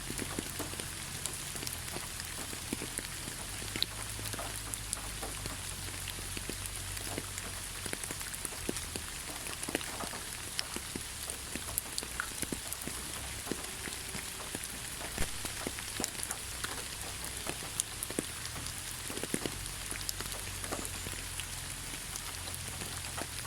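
Steady rain falling in a forest, a continuous hiss with many individual drops ticking sharply on leaves and surfaces, over a low steady rumble.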